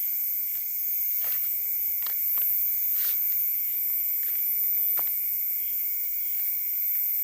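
Steady night chorus of crickets and other insects, several shrill tones held at once, with scattered light clicks and taps through it.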